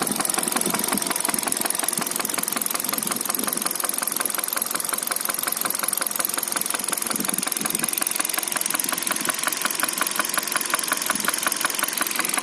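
Hyundai Solaris petrol engine running steadily with a rapid, regular knock. The owner puts it down to a valve and says the engine suffered oil starvation.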